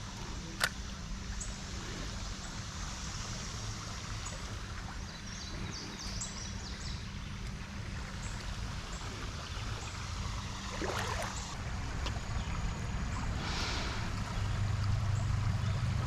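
Water of a shallow creek running steadily, with a low rumble that gets louder near the end. A single sharp click comes just over half a second in.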